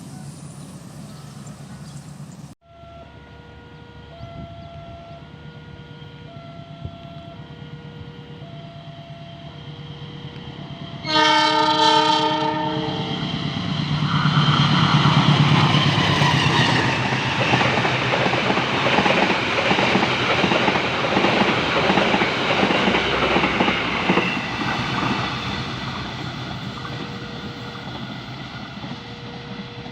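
A two-tone warning alarm alternating about once a second, typical of a railway level crossing, then a loud train horn blast about 11 s in. The train then passes with its wheels clattering over the rail joints, loudest in the middle and fading, and the alternating alarm returns near the end.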